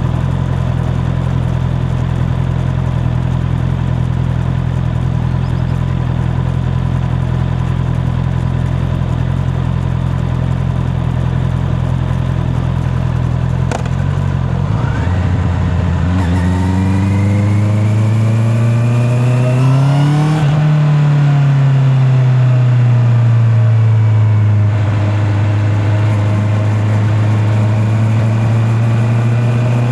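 Honda CB650R's inline-four engine running steadily at low revs, then, about halfway through, revving up in a rising pitch for about four seconds before easing back off to a steady note. Heard from a microphone in the rider's pocket.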